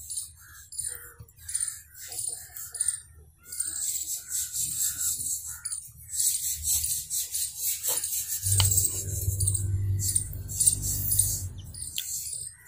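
Outdoor birdsong: small birds chirping over and over, with high-pitched chirps filling the background. A low steady hum comes in past the middle and stops suddenly about a second before the end.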